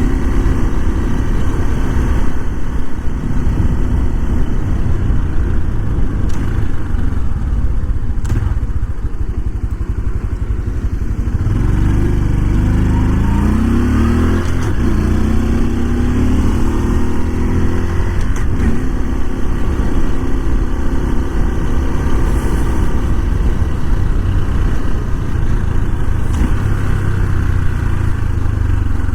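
Honda Super Cub 125's air-cooled 125 cc single-cylinder engine and exhaust under way. It runs fairly steadily at first, then about halfway through revs up in rising steps, dropping in pitch between them as the clutchless four-speed gearbox shifts up.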